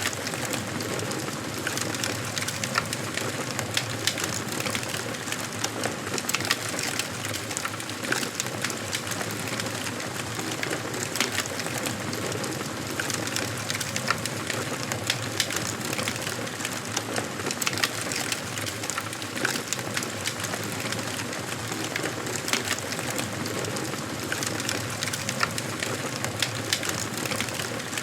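Wood fire crackling in a fireplace: a steady hiss with frequent sharp pops and snaps from the burning logs.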